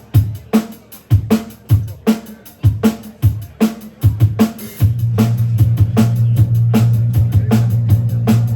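Live rock band playing a song intro: a drum-kit beat of kick and snare hits. About five seconds in, a steady low bass part joins under the drums.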